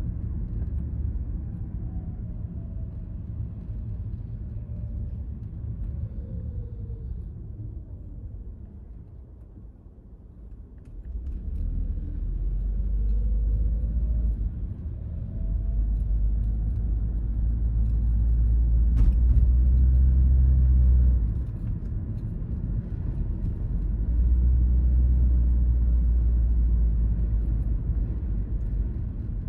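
Car driving on suburban roads: a low road-and-engine rumble that dies down as the car slows almost to a stop, then builds again as it pulls away, with a faint whine that falls while slowing and rises while speeding up. A single sharp click about two-thirds of the way through.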